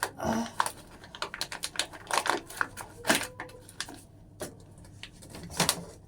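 Irregular light clicking and clattering in uneven clusters, with a quieter stretch about four seconds in.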